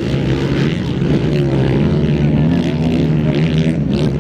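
Racing 250 cc enduro motorcycle engines revving, their pitch rising and falling with throttle and gear changes.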